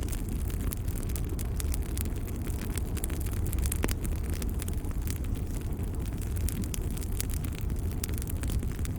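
Wood fire in a fireplace crackling, with a steady low rumble under frequent small pops and one sharper pop about four seconds in.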